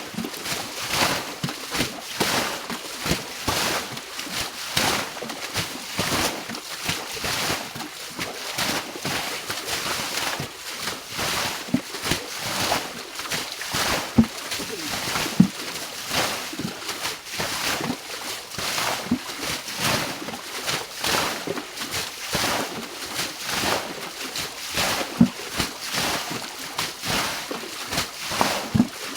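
Water splashing and sloshing over and over at an uneven pace, about one or two splashes a second.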